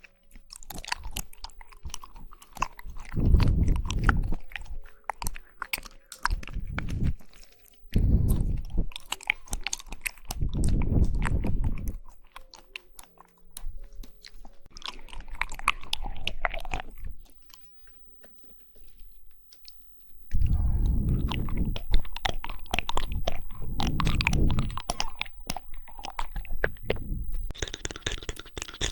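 Close-up mouth sounds of jelly being chewed: wet, squishy bites and chewing in bursts of a second or two, with many small clicks and smacks and short pauses between them.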